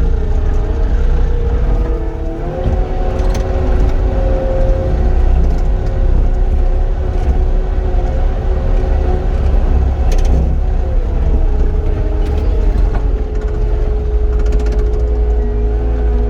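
Cat 259D compact track loader's diesel engine running at working revs with a strong low rumble, its pitch stepping up about two and a half seconds in and shifting again near the end as the load changes.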